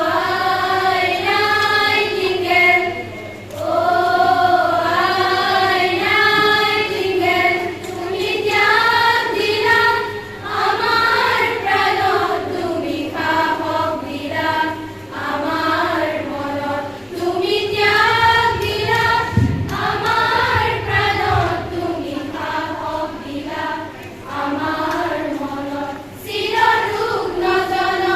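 A group of students singing a song together in chorus, phrase after phrase with short breaths between them.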